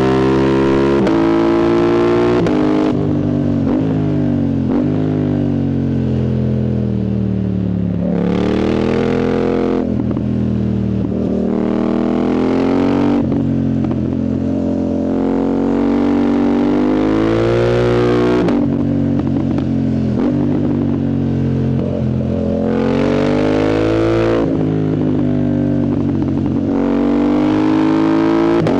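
Yamaha MT-07's 689 cc CP2 parallel-twin engine, breathing through an open full exhaust with the dB killer removed, under hard riding. It revs up and falls back again and again, about five or six times, with crackles and pops from the exhaust on the shifts and throttle closures.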